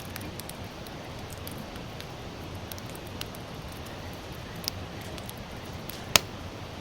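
Sawtooth oak (kunugi) logs burning in a campfire: a steady hiss with sparse crackles and one sharp pop about six seconds in.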